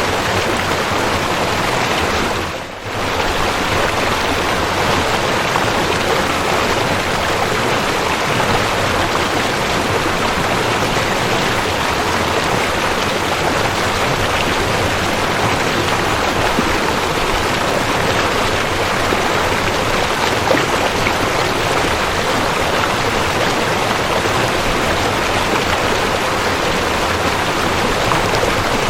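Waterfall: a steady, dense rush of falling water. It dips briefly about three seconds in, then carries on unchanged.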